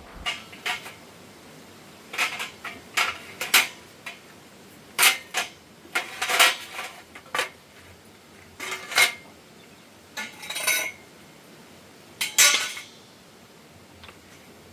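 Metal pieces clinking and clattering as they are handled, about a dozen separate sharp clinks at irregular intervals that stop a couple of seconds before the end.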